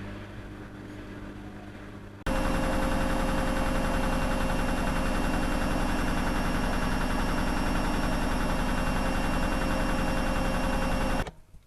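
Washing machine with freshly replaced drum bearings running on a test cycle: a steady motor hum with fixed whining tones over a low, even throb. It is quieter at first, comes in much louder and abruptly about two seconds in, and cuts off suddenly near the end.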